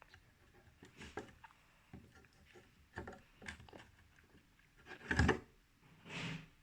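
Light knocks, clicks and rustling as objects are handled, with a louder thump about five seconds in.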